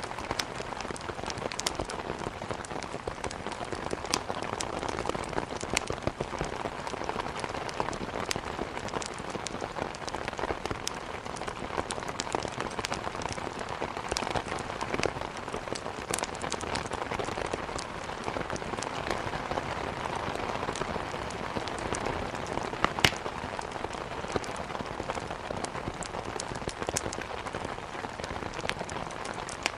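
Steady heavy rain mixed with a wood fire crackling in a fireplace, with sharp pops scattered throughout and one louder pop about two-thirds of the way through.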